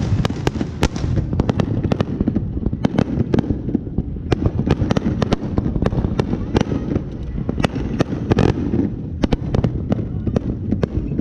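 Many fireworks going off at once: a continuous rumble of booms with rapid sharp cracks all through.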